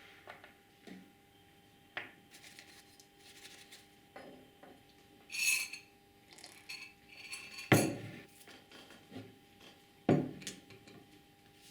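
Small metal parts and tools being handled, with scattered clinks and rattles. Two louder knocks come about two-thirds of the way through and again near the end.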